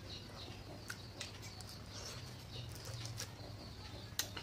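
A person chewing a mouthful of seblak close to the microphone, with small wet mouth clicks and a sharp click about four seconds in. A low steady hum runs underneath.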